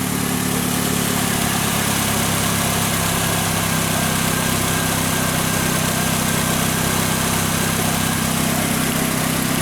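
Fiat Linea engine idling steadily just after start-up, running evenly without the start-up noise it used to make, now that its timing chain kit has been replaced.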